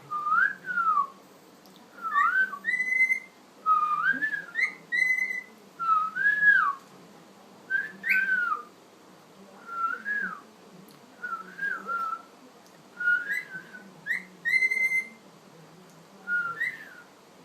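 Cockatiel whistling a tune: about a dozen short, clear phrases that rise and fall in pitch, some ending on a sharper high note, with short pauses between them.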